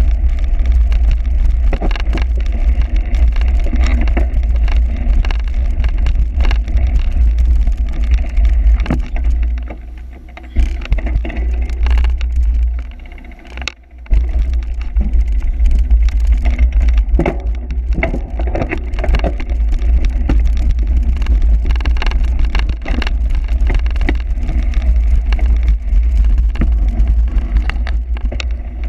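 Heavy wind buffeting on the microphone with frequent rattles and knocks, as from a cyclocross bike ridden over rough, bumpy ground. It eases off for a few seconds around the middle, then comes back.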